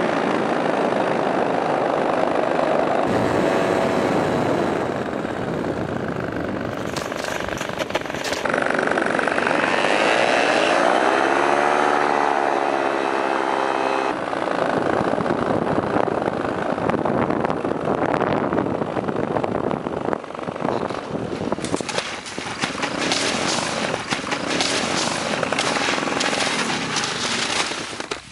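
Paramotor engine and propeller running, cut into several segments, with the pitch swelling up and falling back about ten seconds in. In the last third a rougher, crackling noise takes over.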